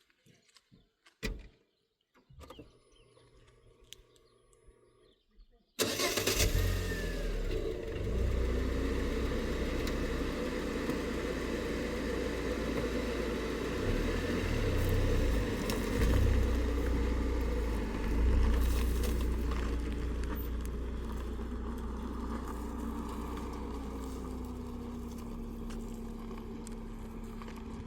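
A few faint clicks, then about six seconds in a motor vehicle engine's steady low rumble starts abruptly and keeps running, its pitch shifting slightly now and then.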